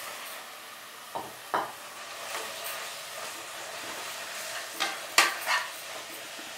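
Minced mutton sizzling as it is stirred into hot onion-tomato masala in an aluminium pressure cooker. A steady frying hiss runs throughout, and a metal slotted spoon scrapes and clinks against the pot a few times, loudest near the end.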